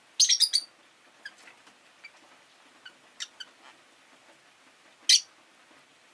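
Rosy-faced lovebirds chirping: a quick run of four or five loud, sharp, high chirps just after the start, a few softer scattered chirps, then one more loud chirp near the end.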